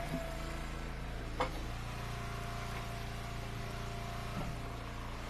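An engine running steadily, with three hard knocks, the loudest about a second and a half in: pieces of split firewood landing on a pile.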